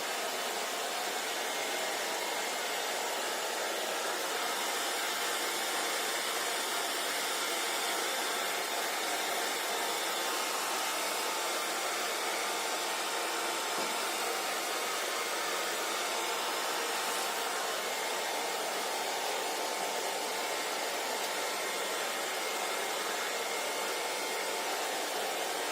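Hair dryer blowing, a steady rushing noise with a faint whine, unchanging throughout.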